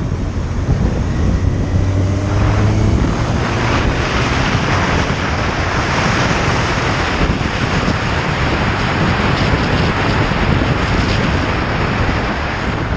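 Wind rushing over the microphone of a moving motorcycle. For the first few seconds the engine note can be heard rising under it, then the wind covers it.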